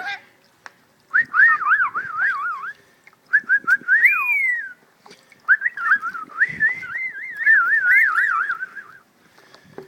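Rainbow lorikeet giving whistled warbling calls, the pitch quickly wavering up and down, in three phrases with short pauses between, the last one longest.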